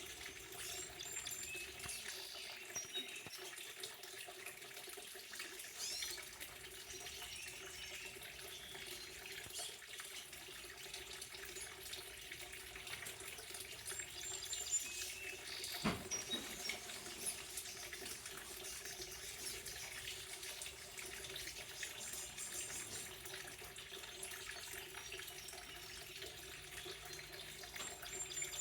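Water running steadily, with short high bird chirps now and then over it and one sharp click about halfway.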